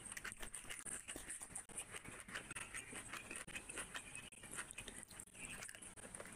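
Close-miked eating sounds: chewing and wet mouth noises, a rapid run of small clicks and smacks, from someone eating rice and curry by hand.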